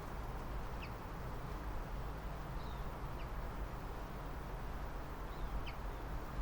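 Birds giving a few short, scattered chirps over a steady low rumble.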